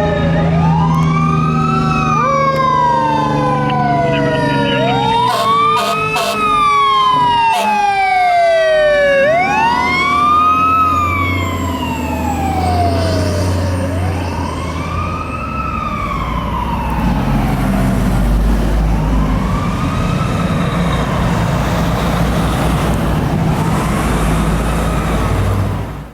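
Pierce Lance fire engine responding with its siren wailing in repeated rising and falling sweeps about every two and a half seconds, layered with other falling tones during the first ten seconds. The siren grows fainter in the second half while the truck's low engine rumble grows, then everything cuts off suddenly.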